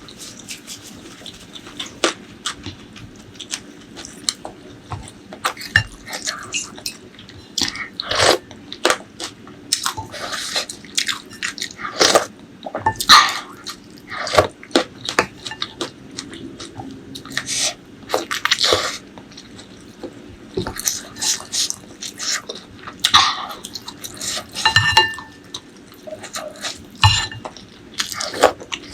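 Close-miked eating: chewing and biting, with many irregular wet smacking clicks.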